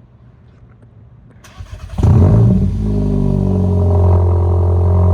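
Car engine breathing through an exhaust with the resonator and muffler deleted. About two seconds in it comes in suddenly and loudly, its pitch flaring and falling away briefly, then holds a steady low drone.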